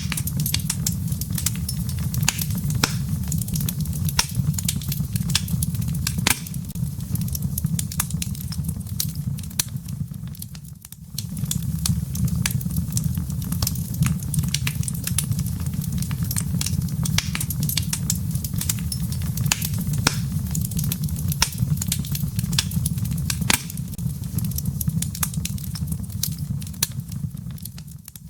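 Wood fire burning in a fireplace: many sharp crackles and pops over a steady low rumble. The sound dips away for a moment about eleven seconds in.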